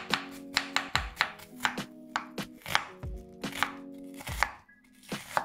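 Kitchen knife slicing vegetables into julienne on a cutting board: quick, even knife strikes at about four a second, with a brief pause near the end.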